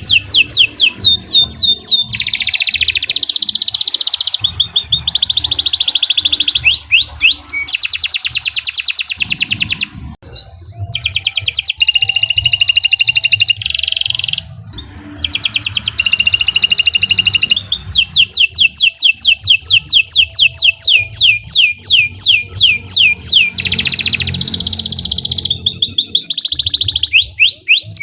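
Domestic canary singing a long continuous song of fast trills and runs of quickly repeated rising whistled notes, with two short breaks about ten and fourteen seconds in.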